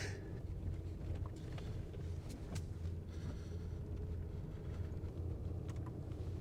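Truck driving along a back road: a steady low engine and road hum, with a few faint clicks.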